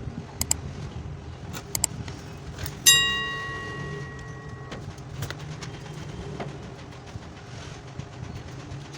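A few small handling clicks, then about three seconds in a sharp metallic strike that rings with several clear tones and dies away, stopped short about two seconds later, over a steady low hum.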